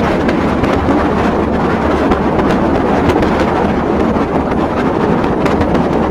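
Train running along the track: a steady rumble with light, irregular clicking of the wheels over the rails.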